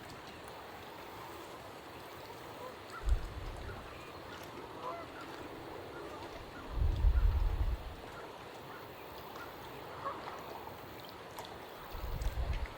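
Waterfowl calling faintly on a lake in short honking calls, broken by three bursts of low rumble, about three, seven and twelve seconds in, which are the loudest sounds.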